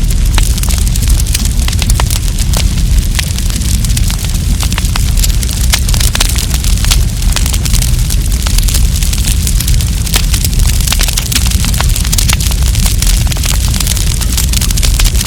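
Wood campfire crackling, with many sharp, irregular snaps and pops from the burning wood over a steady low rumble.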